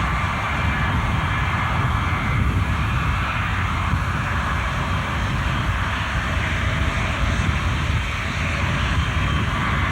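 Jet engines of a Boeing 707 airliner running: a steady, continuous noise with a faint high whine that holds through the whole stretch.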